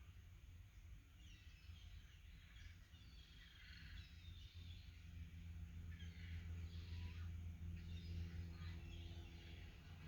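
Faint calls of seagulls over the lake, scattered and overlapping, over a low steady hum that grows a little louder about halfway through.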